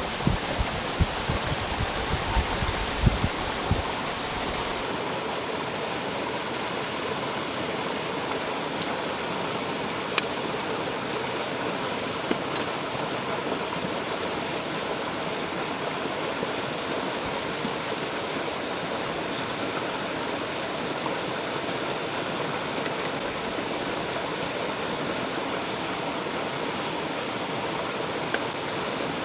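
Stream water running steadily, with wind buffeting the microphone for the first few seconds.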